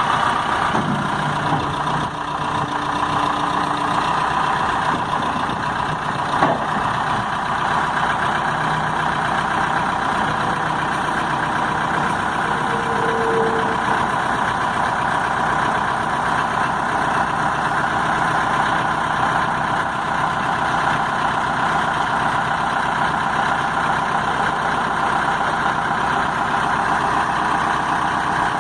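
Case 580L loader backhoe's diesel engine idling steadily, with a single sharp click about six seconds in.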